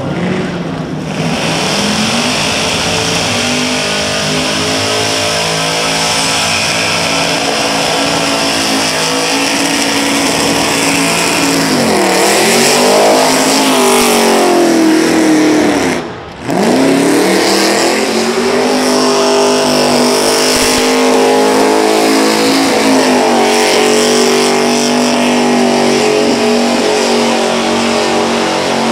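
Supercharged 360 cubic-inch V8 of an AP5 Valiant held at high revs through a burnout, with the rear tyres spinning. Its pitch dips and climbs again a couple of times around the middle, and the sound cuts out for a moment about sixteen seconds in.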